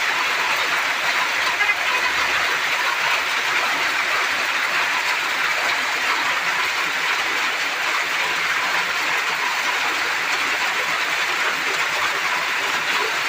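Hailstorm: hailstones and rain pelting down in a steady, dense hiss of countless small impacts, with no let-up.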